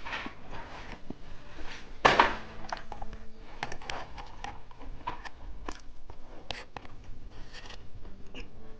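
Close-miked handling and eating of candy: scratchy rustles, small clicks and taps, with one louder rustling burst about two seconds in.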